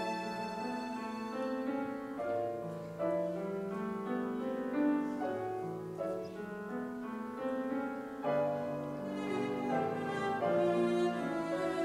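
Piano trio playing: violin and cello holding bowed melodic lines over piano chords, in a continuous passage of classical chamber music.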